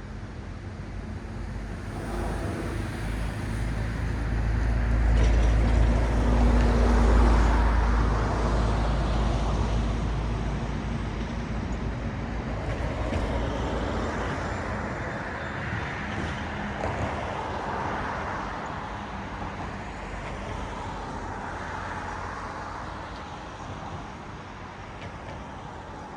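Road traffic: vehicles passing one after another, their tyre noise swelling and fading. The loudest pass, with a deep engine rumble, comes about six to eight seconds in, followed by several lighter car passes.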